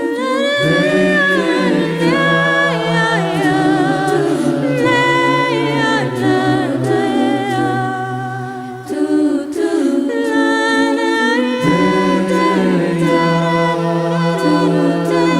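A cappella vocal group singing in close harmony, several voices over a held bass line; the bass drops out for a couple of seconds about two-thirds of the way through, then comes back.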